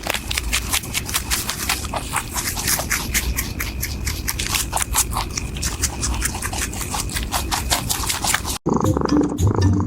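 A rapid, uneven run of sharp scratchy clicks over a low rumble, which cuts off about eight and a half seconds in, where music begins.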